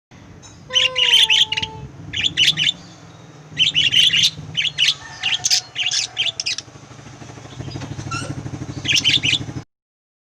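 Pet lovebirds chirping: rapid shrill chirps in four bursts, the longest in the middle, with pauses between.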